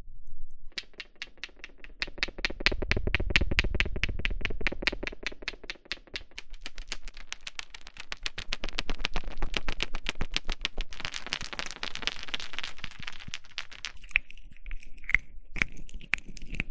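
Rapid, even tapping close to the microphone, about eight taps a second. Near the end it gives way to a denser scratching rustle, then a few sparser clicks with a slight ring.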